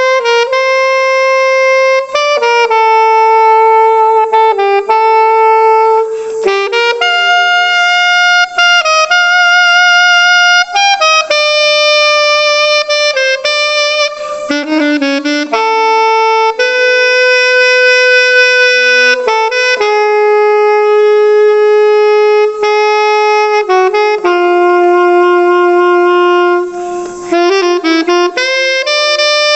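Solo alto saxophone playing an unaccompanied melody of held notes joined by quick runs, with a bright, hard-attacked tone from a non-classical mouthpiece. The line breaks off briefly near the end before going on.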